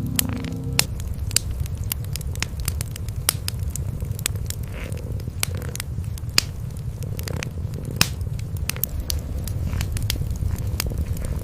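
Wood fire crackling with frequent sharp pops, over the low, steady rumble of cats purring.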